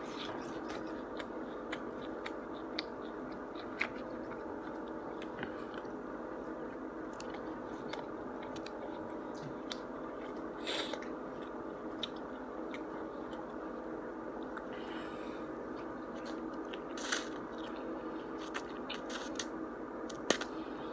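Close-up chewing and mouth sounds of a man eating chow mein and chicken, with scattered small clicks and smacks, over a steady background hum.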